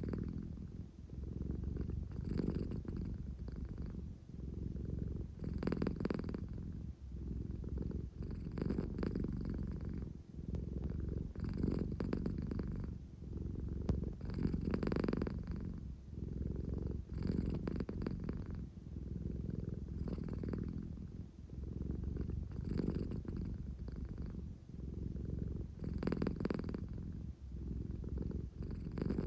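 An American Shorthair cat purring close up, a steady low rumble that swells and eases with each breath, about once every three seconds.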